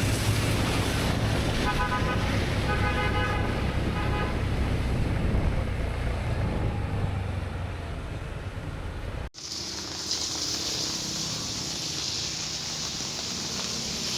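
Road traffic rumbling, with a vehicle horn honking twice in the first few seconds. After a sudden cut about nine seconds in, a steady hiss of rain.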